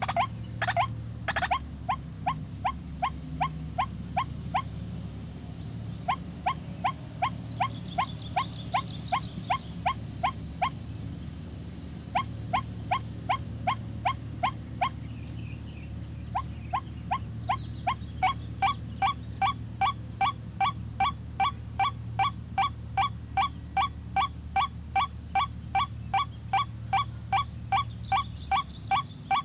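White-breasted waterhen (ruak-ruak) calling: short, sharp notes repeated about three a second in long series, with brief pauses between runs, over a steady low hum.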